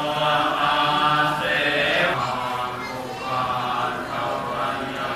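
Voices chanting in unison, with long held notes that change pitch every second or two.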